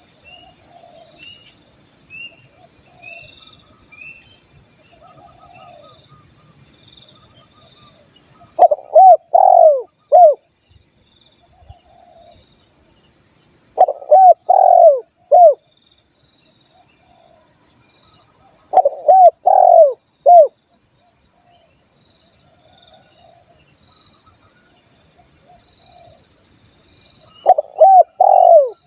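Spotted dove (tekukur) cooing: four loud phrases of three or four arching coos, spaced several seconds apart. A steady high chorus of insects and faint chirps of other birds run underneath.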